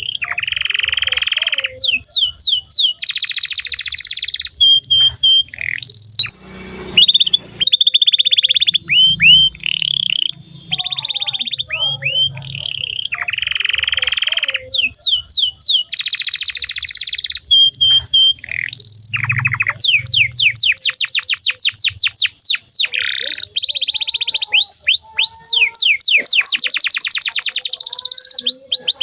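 Domestic canary singing a long continuous song: phrases of rapidly repeated downward-sweeping notes alternating with buzzy rolls, the phrase changing every second or two.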